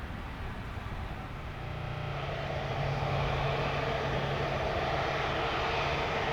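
Jet airliner engines running, growing louder about two seconds in and then holding steady, with a low steady hum under a broad rush of noise.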